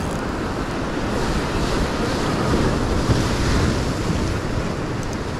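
Sea surf washing against shoreline rocks, with wind rumbling on the microphone; a steady rush that swells a little in the middle.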